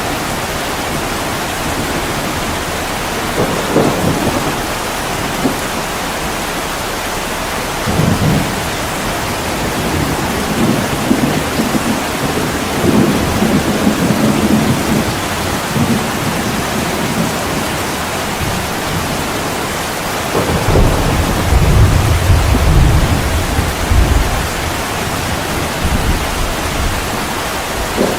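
Heavy rain pouring steadily, with low thunder rumbling several times; the longest and loudest roll comes about two-thirds of the way through.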